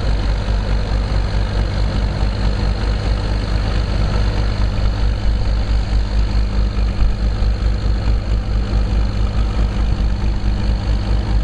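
Diesel locomotive engine of a narrow-gauge train running steadily, a low even drone with a fine fast pulse and no change in speed, heard from the passenger cars.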